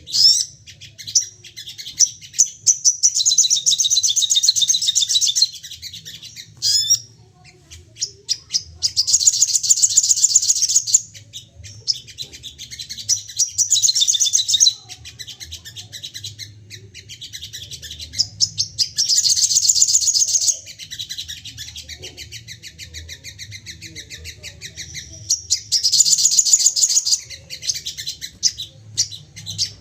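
Sogon songbird singing in rapid-fire bouts of high, fast chirps. Five long dense bouts of a few seconds each are broken by sparser single chirps. A faint low hum runs underneath.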